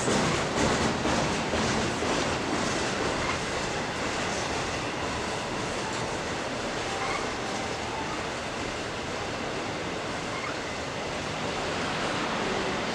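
A train's cars rolling past on the rails: quick wheel clatter for the first couple of seconds, then a steady rumble with a faint thin squeal now and then.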